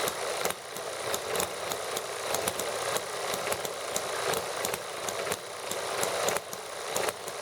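Small model gasoline engines running together, a fast, uneven ticking of firing strokes whose level swells and drops back every second or two.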